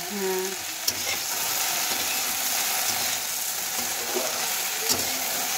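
Sliced okra sizzling steadily in hot mustard oil in a frying pan while a spatula stirs it, with a couple of sharp clicks about a second in and again near the end.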